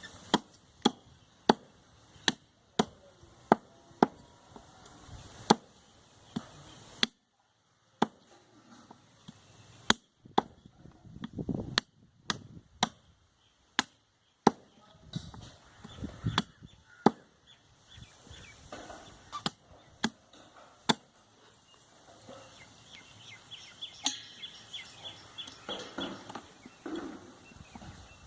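Butcher's knife or cleaver chopping goat meat on a wooden block: sharp single chops at an irregular pace, roughly one a second, with a couple of short pauses and softer handling sounds between them.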